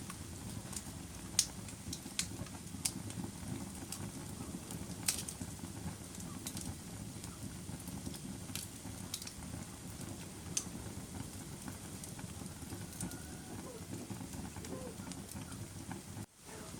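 Wood fire burning in a fireplace: a steady low rushing of the flames with scattered sharp crackles and pops, several louder ones in the first half. The sound cuts out for an instant near the end.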